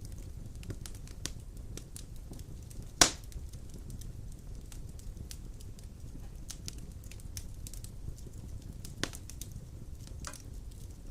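Large logs burning in a fireplace: a steady low rumble of flame with scattered crackles. There is one loud pop about three seconds in and a smaller one near nine seconds.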